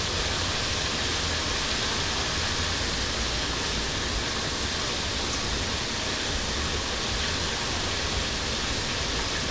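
Chicken legs and thighs frying in hot oil: a steady sizzling hiss that holds even throughout, the chicken still far from done.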